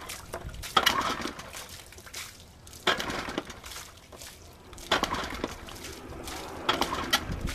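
Evinrude 25 hp outboard being hand-cranked on its recoil starter: four pulls about two seconds apart, each a short sharp rasp that dies away, and the motor does not run between them.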